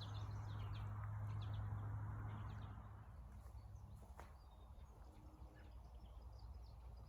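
Small birds chirping in quick short calls, busiest in the first couple of seconds, over a low steady rumble that eases after about three seconds.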